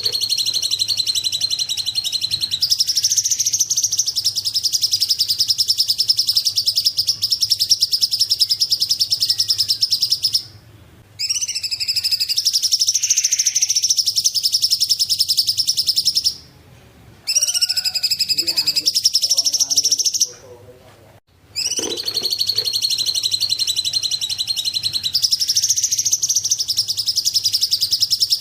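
A songbird that Indonesian keepers call cungkok sings long, very fast, high-pitched trills. The song runs in stretches of about four to ten seconds, broken by short pauses about ten, sixteen and twenty seconds in. A faint low hum lies under the song.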